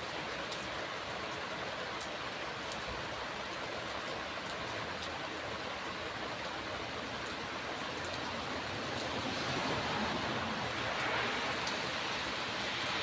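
Heavy rain falling in a steady hiss, with a few faint ticks of single drops, swelling a little about nine seconds in.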